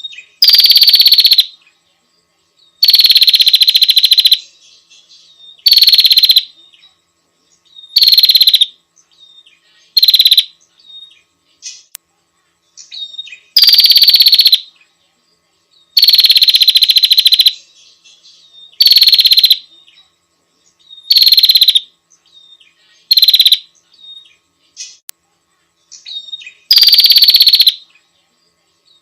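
Prinia giving a loud, buzzy, rattling call over and over, each burst lasting about a second and dipping slightly in pitch at the start, repeated every two to three seconds with faint short notes between.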